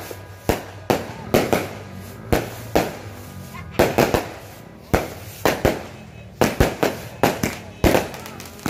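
Aerial fireworks going off in quick, irregular succession: about two sharp bangs a second, each fading away quickly.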